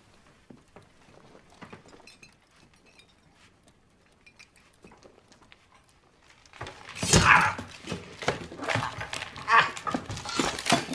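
Faint taps and shuffles, then from about two thirds of the way in a dog barking again and again, loudly.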